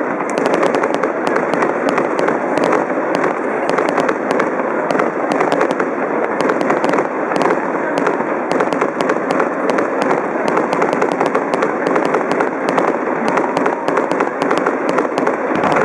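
Fireworks display: dense, continuous crackling with many sharp pops packed closely together, steady throughout.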